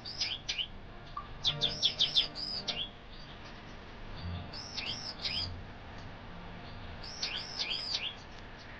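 Small aviary birds, white-eyes (pleci), giving quick high chirps in four short bursts a second or two apart.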